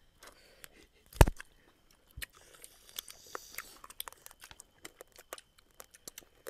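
Close-up chewing and biting on roasted duck eaten by hand, many short wet clicks and crunches. A single sharp thump about a second in is the loudest sound.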